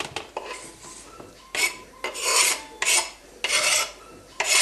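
Food being grated on a kitchen grater: a series of even back-and-forth strokes, about five strong ones in the second half, each a short scraping rush.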